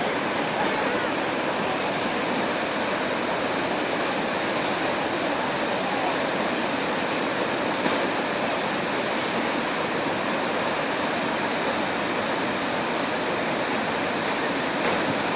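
Floodwater rushing past in a steady, unbroken stream of noise.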